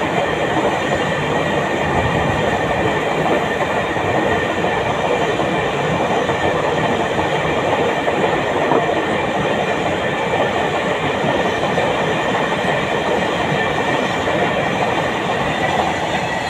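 Empty flat container wagons of a freight train rolling past at close range: a steady, loud noise of steel wheels on the rails, with thin steady high-pitched tones running over it.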